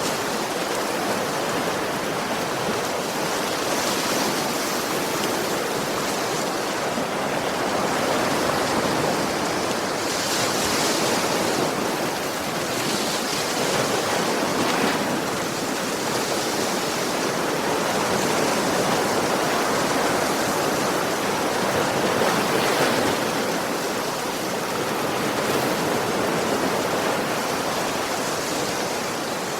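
Ocean surf: a continuous rush of waves washing onto a beach, slowly swelling and easing.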